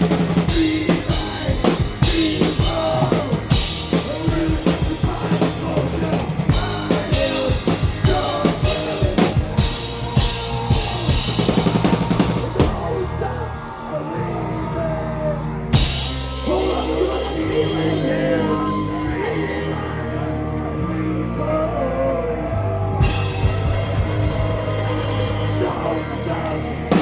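Punk rock band playing live: drum kit, bass and guitars with a singer's voice over them. The cymbals drop out twice for a few seconds, about halfway through and again later, before the full band comes back in.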